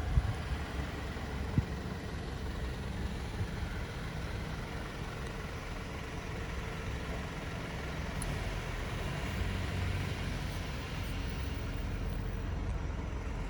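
A motor vehicle running steadily, a low rumble, with two short knocks in the first two seconds.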